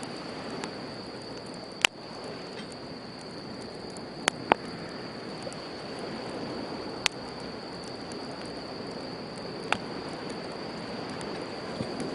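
Wood campfire crackling, with about five sharp pops, over the steady wash of sea waves on the shore.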